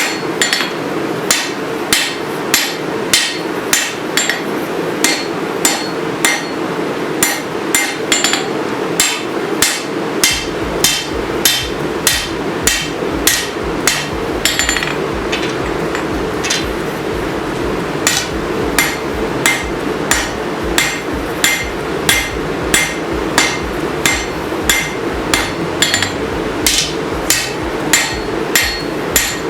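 Hammer blows on hot steel at the anvil while forging a sword blade, about two ringing strikes a second with a short lull about halfway through, over a steady hum.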